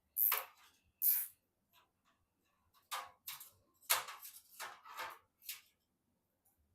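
Short scraping and clicking handling sounds from PC parts being fitted: two sharp ones near the start, then a quick run of them from about three to five and a half seconds in.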